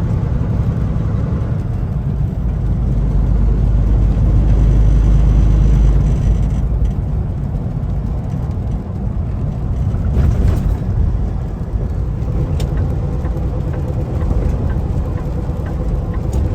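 Semi truck on the move, heard from inside the cab: a steady low engine drone with road noise. It swells about four seconds in and drops off around six seconds, with a few brief knocks near the middle.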